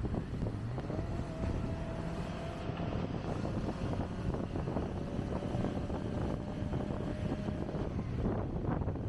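Kawasaki Ninja ZX-25R's small inline-four engine running while under way, with wind buffeting the microphone. A steady tone holds from about a second in until near the end.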